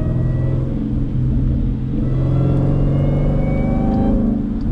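Supercharged 6.2-litre V8 of a Jeep Grand Cherokee Trackhawk running at low revs while driving, its pitch rising gently about two seconds in, then settling.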